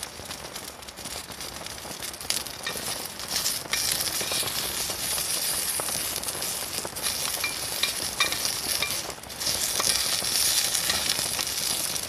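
Food sizzling in a hot pan, a dense steady hiss with scattered small pops and clicks.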